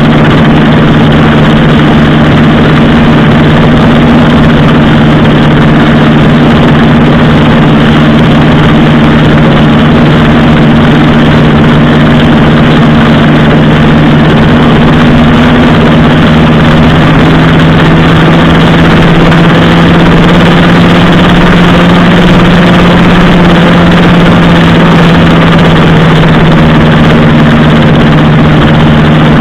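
Motorcycle engine running at a steady, even pitch under a constant loud rush of noise, very loud on the microphone; the engine note shifts slightly about halfway through.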